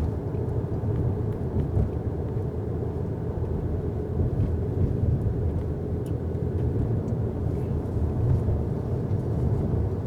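Steady low road rumble inside the cabin of a 2019 Mercedes A-Class driving on a snowy road: tyre and engine noise at a constant level.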